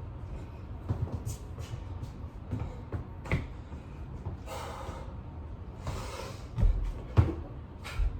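Thumps and knocks of a person doing burpees with push-ups on a floor, with two short, hard breaths midway; the loudest thumps come near the end.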